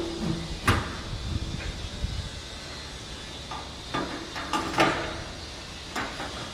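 A few sharp knocks and clanks, the loudest about a second in and again near the middle, over a steady low rumble.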